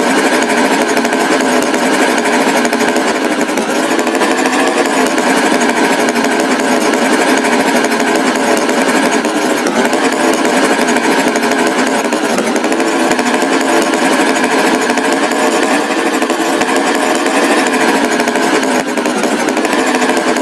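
Tractor engine running steadily, a loud, unbroken buzzing drone.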